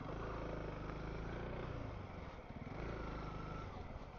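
Honda CRF300L dual-sport motorcycle's single-cylinder four-stroke engine running steadily while being ridden.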